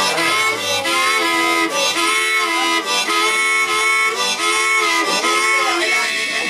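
Blues harmonica playing a line of held notes that bend in pitch, with little accompaniment beneath it.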